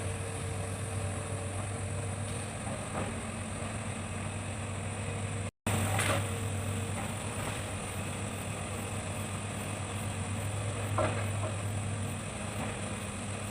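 Hitachi excavator's diesel engine running at a steady hum, with a few faint knocks; the sound cuts out for an instant about halfway through.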